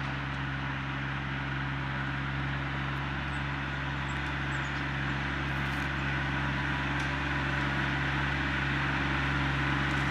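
Engine running steadily with a low, even hum, slowly growing louder.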